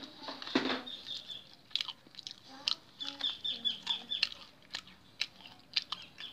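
A person chewing and crunching fried food, chicken katsu and tofu, close to the microphone, with many short crunchy clicks and a louder bite about half a second in. Short runs of high, quick chirps sound behind it, near the start and again about three seconds in.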